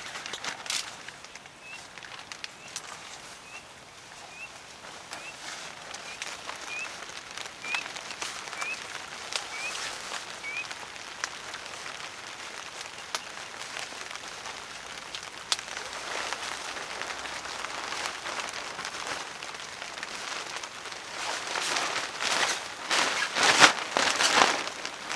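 Rain pattering with scattered drips and clicks. A short rising chirp, probably from a bird, repeats about once a second for the first ten seconds. Louder rustling bursts come near the end.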